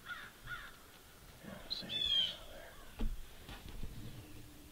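Birds calling in the morning: a quick run of short calls, then one louder call about two seconds in. A couple of short knocks follow about three seconds in.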